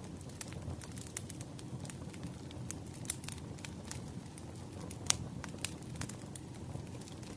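Wood fire crackling: irregular pops and snaps over a low, steady rumble of burning logs, with the sharpest pop about five seconds in.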